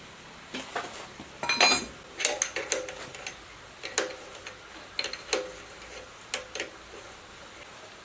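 Small metal parts and tools clinking and tapping against each other in irregular light knocks, with a short rattling cluster about one and a half seconds in.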